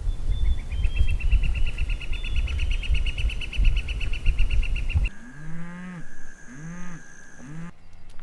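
Wind rumbling on the microphone with a high, rapid trill of about seven notes a second. About five seconds in, it cuts to three short low animal calls that each rise and fall in pitch, over a faint steady high tone.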